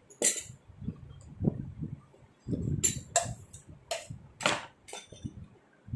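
A kitchen utensil clinking and scraping against dishware while cream is spread on a cake: one sharp clink near the start, then a run of five clinks and short scrapes in the second half, over low handling noise.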